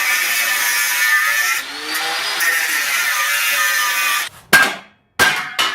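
Power tool running steadily at work in metal, then stopping about four seconds in, followed by three short loud bursts.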